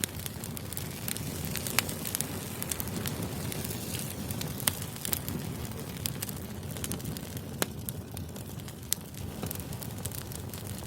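Wood campfire burning: a steady low rush of flames with scattered crackles and sharp pops from the wood, three louder pops about two, five and seven and a half seconds in.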